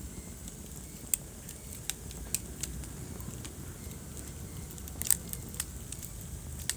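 Wood fire in a fireplace crackling: irregular sharp pops and snaps, the loudest a little after halfway, over a low steady rumble of burning.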